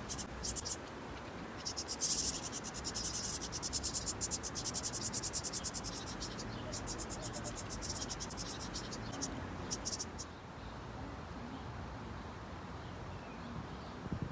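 High-pitched insect trills, rapid even pulses in repeated bursts, stopping about ten seconds in.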